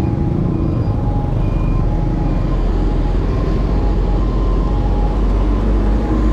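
Steady road noise while riding a bicycle in city traffic: a continuous low rumble of wind on the microphone, with engines of passing vehicles mixed in.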